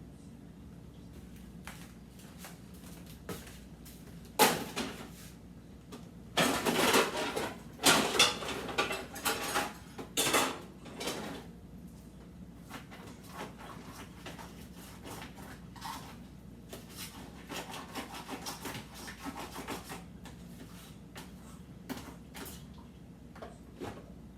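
Refrigerator contents and drawers being handled: a sharp knock, then several seconds of clattering and rustling of containers, followed by lighter scattered clicks and rubbing.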